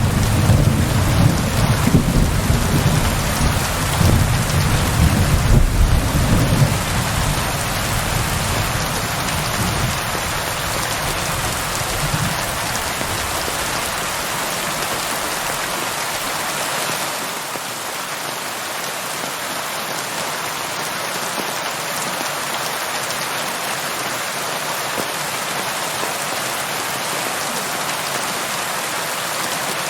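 Steady heavy rain, with a low rolling rumble of thunder that fades away about twelve seconds in, leaving the even hiss of rain alone.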